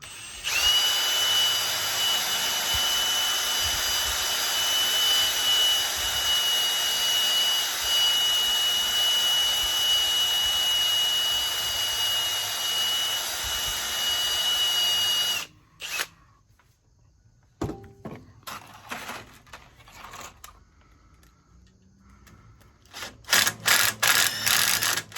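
Handheld electric power tool running steadily with a high whine for about fifteen seconds, then stopping suddenly. A few short knocks follow, and a quick series of short bursts comes near the end.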